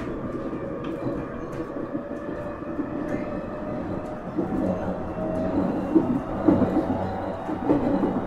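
JR 701 series 1000-subseries electric train running, heard from inside the car: steady rumble of wheels on rail with a steady motor hum. Scattered light clicks, and a few louder knocks in the second half.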